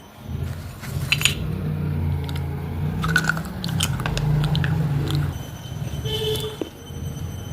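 Close-miked chewing of baked clay from an earthen diya lamp: a continuous low grinding mouth sound with scattered small crunches and clicks, easing off near the end.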